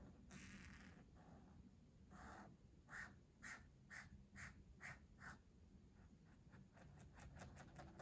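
Faint scratching of coloring strokes on paper: a run of about six even back-and-forth strokes in the middle, then quicker, lighter strokes near the end.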